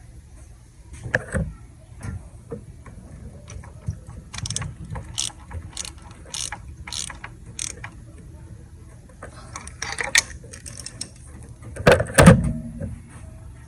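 Ratchet and hand tools working on the engine's spark plugs: a run of sharp ratchet clicks and metal-on-metal knocks, with a louder clatter of tools near the end.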